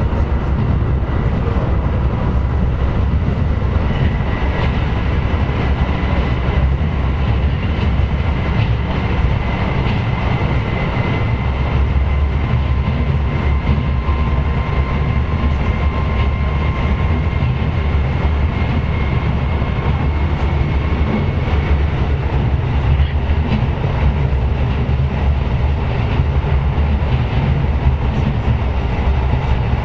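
KiHa 125 diesel railcar running along the line: a steady rumble of engine and wheels on the rails, with a faint whine over it that fades out about twenty seconds in.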